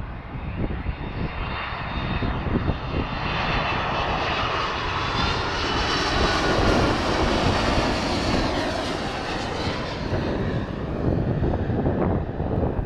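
Boeing 767 twin-jet airliner's engines going by as it lands. The sound builds to a peak about six seconds in, then its whine falls in pitch and the sound eases off near the end.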